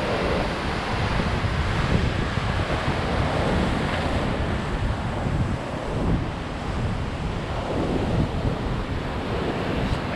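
Typhoon wind buffeting the microphone in heavy, irregular gusts, over the steady rush of rough, storm-driven waves.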